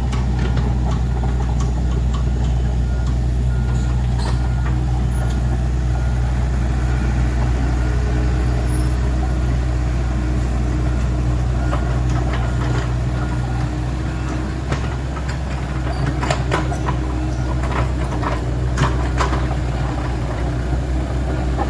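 Dump truck's diesel engine running steadily at an even, low note, with a few sharp knocks and rattles near the end.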